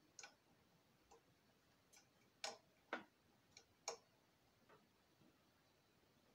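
Scattered light clicks and taps of tools and metal compressor parts being handled, irregular rather than rhythmic, with three sharper clicks in the middle.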